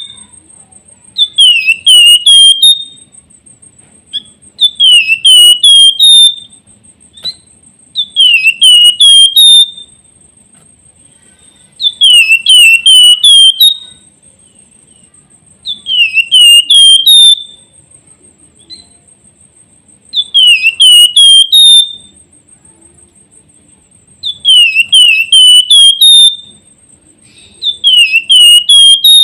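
Javan fulvetta (flamboyan) whistling loudly: a phrase of four or five quick, high, falling whistled notes, repeated about every four seconds.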